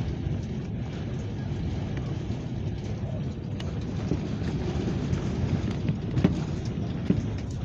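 Strong wind blowing across the microphone as a steady low rumble, with a few faint knocks.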